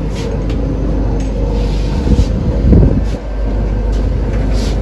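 Steady low mechanical hum inside a railway coach, with a brief louder low rumble about halfway through.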